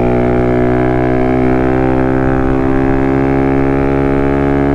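Small single-cylinder motorcycle engine running at a steady speed under way, its pitch holding even.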